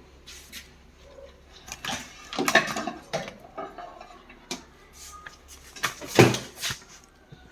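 Hard objects being handled and set down: a string of knocks and clattering rattles, loudest about two and a half seconds in and again about six seconds in.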